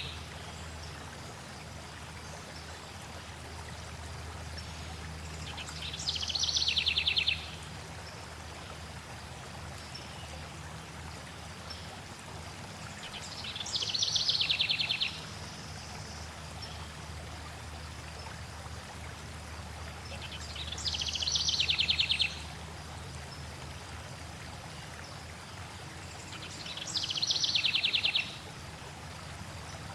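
Steady rushing of a flowing stream, with a songbird's short trilled song repeating about every seven seconds, four times. Each phrase lasts about a second and a half, drops in pitch, and is the loudest sound.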